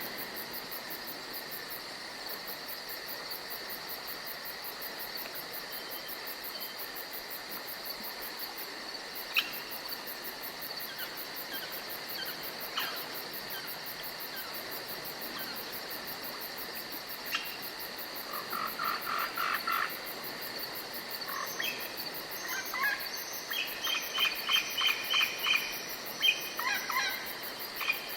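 Forest ambience: a steady high drone of insects with scattered bird chirps, and two runs of quick repeated bird notes, one about two-thirds of the way in and another near the end.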